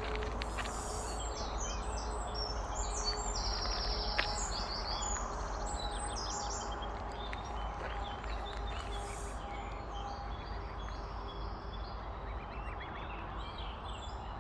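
Birds chirping in quick, high calls, most of them in the first half, over a steady hiss of outdoor background noise.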